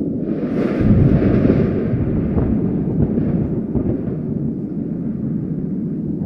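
A thunderclap: a crackle breaks about a second in and rolls away over the next few seconds, over a steady low rumble of wind and distant thunder.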